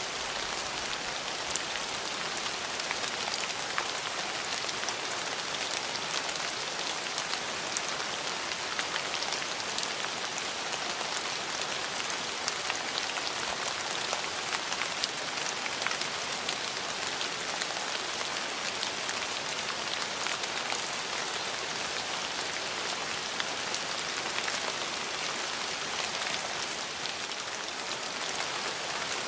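Steady rain falling on hard surfaces, a dense even hiss of many drops, with small, separate drop taps scattered through it.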